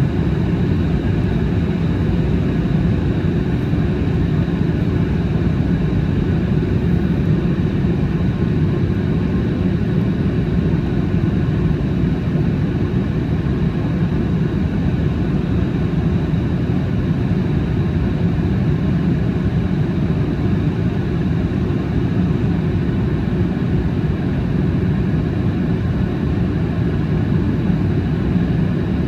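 Steady cabin noise of a Boeing 737 MAX 8 under way: an even, low roar from its CFM LEAP-1B engines and the airflow, with faint steady tones over it.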